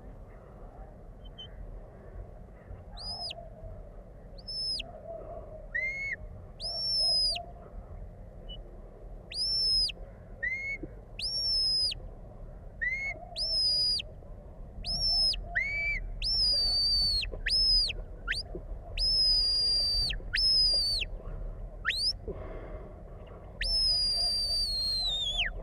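Sheepdog handler's whistle commands to a working dog: a string of short, high whistled notes, some rising, some falling, coming faster from about halfway through and ending with a long whistle that falls in pitch. A low rumble of wind runs underneath.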